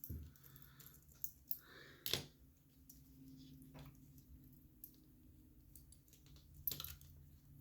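Small metal clicks and taps of watch bracelet parts and hand tools being worked, scattered and faint, with two sharper clicks about two seconds in and near the end.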